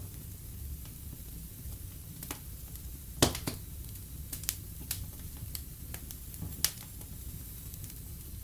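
Wood fire in a fireplace crackling: scattered sharp pops and snaps over a low steady rumble, the loudest pop about three seconds in.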